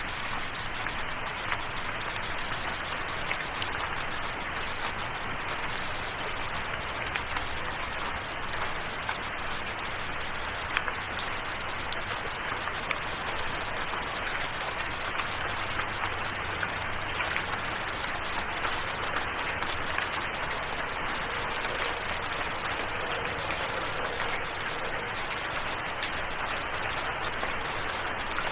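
Steady rain falling, an even hiss dotted with frequent small drop taps.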